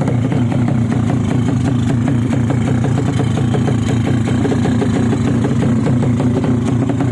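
Drag-bike motorcycle engine running steadily, without revving up or down.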